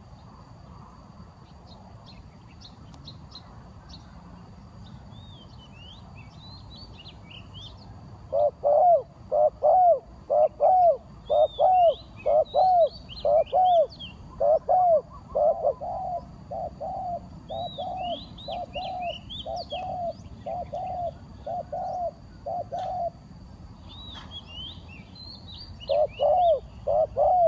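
A dove calling a long, rapid series of evenly spaced coos, about one and a half a second, starting about eight seconds in and growing quieter, then starting again near the end. Small birds chirp high above it now and then.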